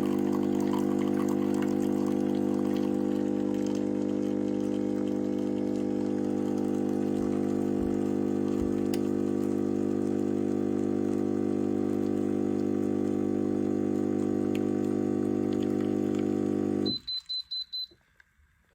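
Klarstein 20-bar espresso machine's pump humming steadily while it pushes water through. It cuts off near the end, followed by a quick run of short, high beeps from the machine.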